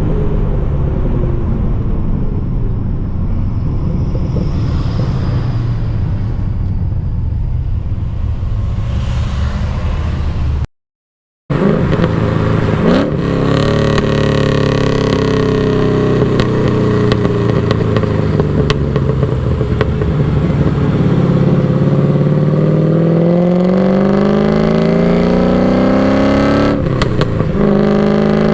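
LS1 V8 in a BMW E36, heard as raw exhaust while driving. It runs at a fairly steady engine speed at first and cuts out for under a second about eleven seconds in. Then the revs climb and fall, with a long rise in pitch under acceleration and a brief break near the end, like a gear change.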